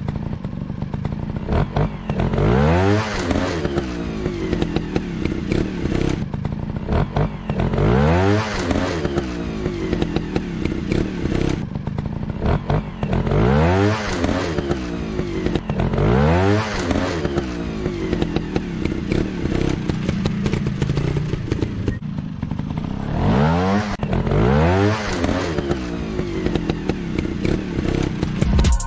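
Small motocross bike engine running steadily and revving up and back down about six times, each rev a quick rising and falling whine. Light scraping and clattering run underneath.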